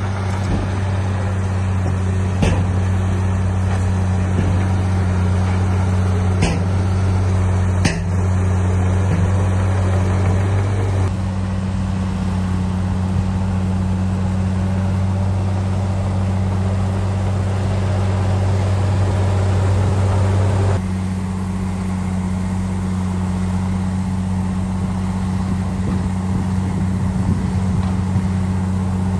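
Heavy diesel engine of an earthmoving machine running steadily with a deep, constant hum, and a few sharp knocks in the first third. The sound shifts abruptly about a third and about two-thirds of the way through.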